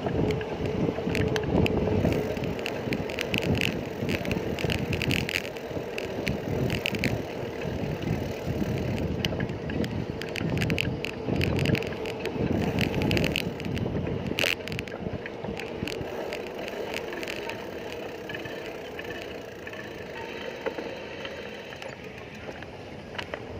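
Bicycle in motion: steady tyre and road noise with frequent small rattles and clicks.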